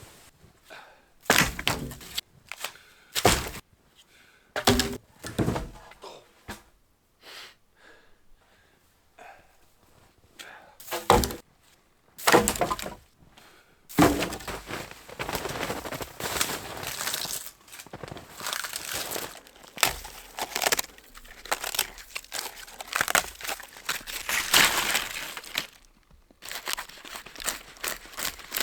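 Dead wood being broken: a series of sharp separate cracks as branches snap, then a long stretch of dense crackling and crunching.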